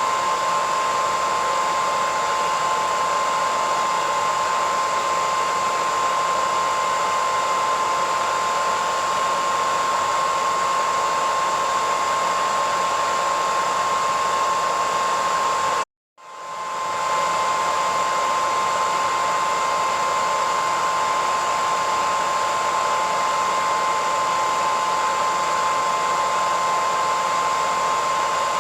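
Hair dryer running steadily: a rushing airflow with a high, even whine. About sixteen seconds in it cuts out for a split second and swells back in.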